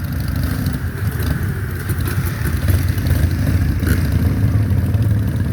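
Harley-Davidson V-twin motorcycle engine running at a low, steady rumble, getting a little louder about two and a half seconds in.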